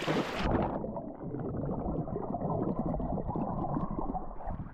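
A splash as a swimmer dives into the sea, then muffled underwater bubbling and churning heard by the submerged camera, until the sound opens up again near the end as it comes back to the surface.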